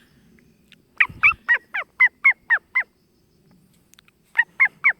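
A pet starling calling: a quick run of about eight sharp, falling notes about a second in, then four more near the end.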